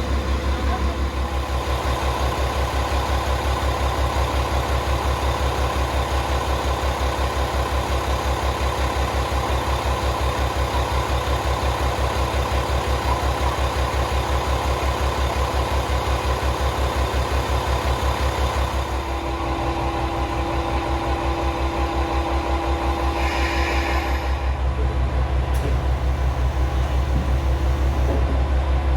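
Komatsu diesel engine of a KiHa 40/47 series railcar idling steadily with an even low pulsing beat. Its tone shifts slightly about two-thirds of the way through.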